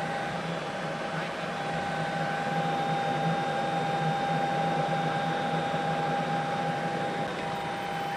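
Steady helicopter cabin noise: an even engine and rotor hum with a few constant whining tones over it.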